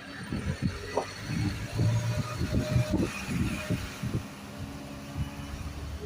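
Isuzu garbage truck's diesel engine running with a steady low hum, with a run of irregular low thumps and rumbles over the first four seconds.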